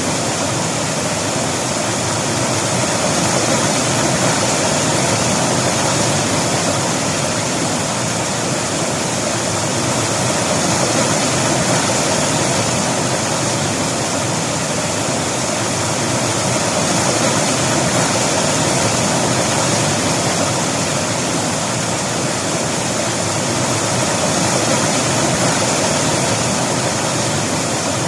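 River water flowing, a steady rush that swells gently in loudness every few seconds.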